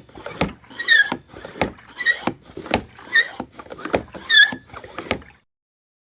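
Rhythmic squeaking and knocking: a short squeak falling in pitch about every second, with a knock between each, stopping abruptly near the end.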